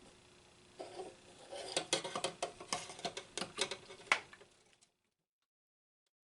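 Small clicks, taps and scraping of parts being handled and pushed into place in a radio, a quick irregular run of knocks lasting about four seconds.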